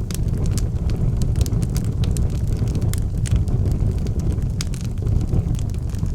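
Wood fire burning in a fireplace: a steady low rumble of flame with frequent irregular crackles and pops from the burning logs.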